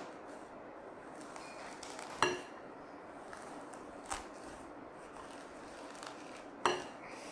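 Three sharp clinks of a metal tool against a glass vase, about two seconds apart; the first rings briefly.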